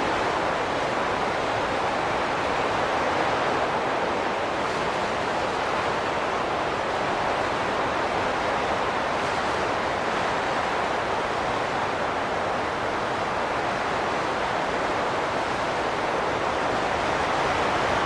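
Wind blowing steadily, a rushing noise that swells and eases only slightly, with no whistling tones or gusts standing out.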